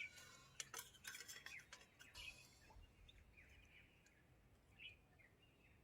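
Near silence, with a few faint soft clicks in the first couple of seconds and scattered faint high chirps.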